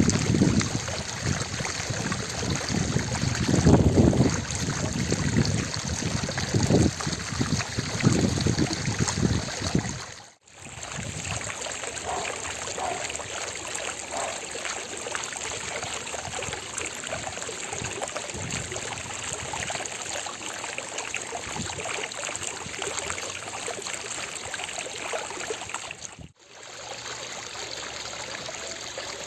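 Fountain water splashing and trickling steadily into its basin. It is heavier and deeper for the first ten seconds, then lighter after a brief dropout, with another brief dropout near the end.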